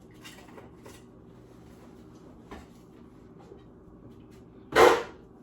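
A person coughing once, a short, loud, harsh cough near the end, from a throat said to be sore and irritated. A faint steady hum lies underneath.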